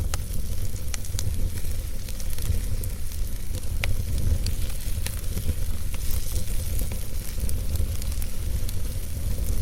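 Wood fire burning in a fireplace: a steady low rumble of flames under a hiss, with scattered sharp crackles and pops from the logs at irregular moments.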